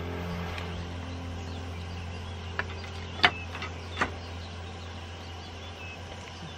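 A steady low hum, with three sharp clicks or taps about two and a half, three and four seconds in.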